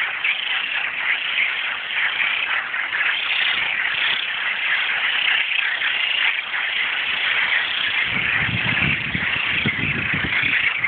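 Dense chorus of frogs calling over one another, a steady pulsing trill: males' mating calls. About eight seconds in, a low rumble with a few knocks joins for a couple of seconds.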